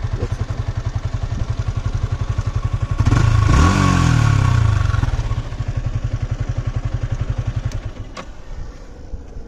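Yamaha R15 V3's single-cylinder engine idling with an even pulse just after a cold start, blipped once about three seconds in, its pitch rising and falling back to idle. The engine sound drops away about eight seconds in.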